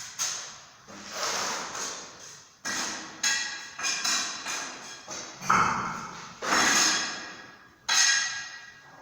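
A series of about ten sharp, irregular knocks and clinks, some with a short ringing tone that fades within a second.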